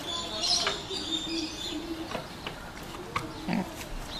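Birds chirping in short high calls, with a low cooing call held for about a second and a few light clicks.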